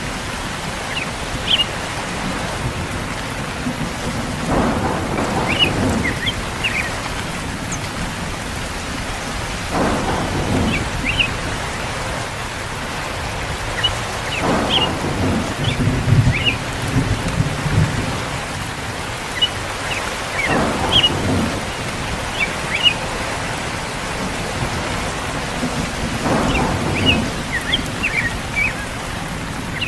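Steady heavy rain with rumbles of thunder that swell up about every five to six seconds, the strongest low rumble coming around the middle.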